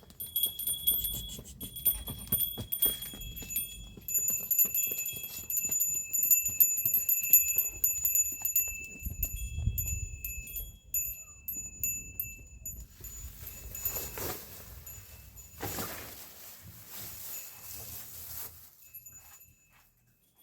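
Small bells on goats jingling and clinking as the animals move, with many quick light strikes ringing at a few steady high pitches. In the second half the bells fade and two longer rushing noises swell up and die away.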